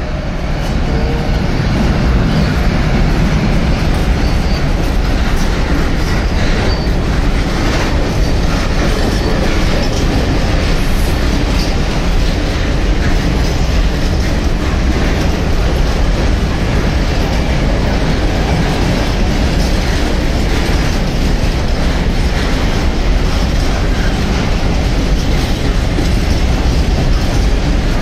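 Freight train of covered hopper wagons rolling past close by, hauled by a Siemens Vectron class 193 electric locomotive. The wheels make a steady loud rumble on the rails, with occasional clicks over the rail joints.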